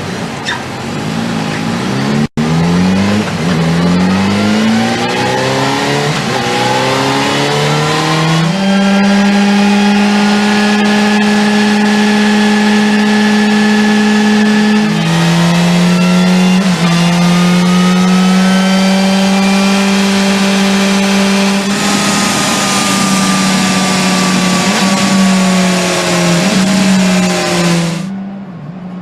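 A vehicle engine accelerating hard through a quick run of gear changes, its pitch climbing and dropping back with each shift. It then holds steady high revs for several seconds at a time, with small dips and rises in pitch, and stops abruptly near the end.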